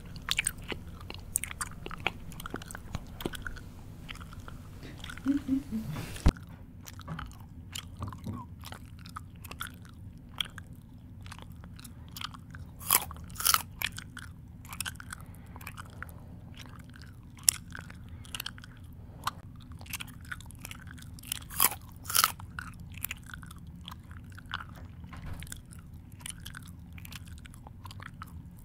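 A person chewing close to the microphone, with irregular crunches and wet mouth smacks.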